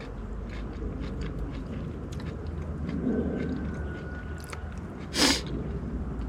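A person chewing food, with small scattered clicks and one short, sharp noise about five seconds in.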